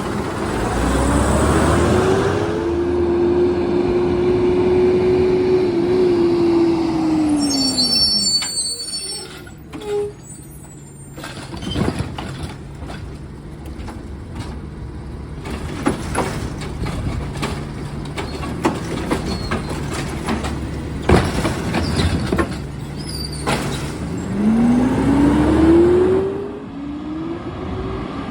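Garbage truck engine revving up and holding at raised speed for several seconds, then dropping back, as it does when the engine drives the hydraulics. In between there are scattered metallic knocks and clanks, and the engine revs up again near the end.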